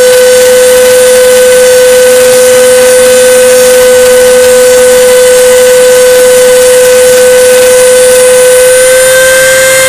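CNC router spindle running with a loud, steady high whine over a hiss as the bit cuts 5 mm plywood. The pitch rises slightly near the end.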